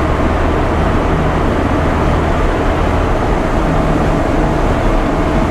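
Ready-mix concrete truck driving on the road with a full 10-yard load, heard from inside the cab: a steady diesel engine drone with tyre and road noise.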